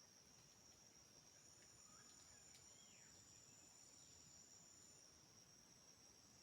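Faint, steady high-pitched trilling of forest insects such as crickets, in two close tones, one of which drops out for a while. A few faint short chirps come near the middle.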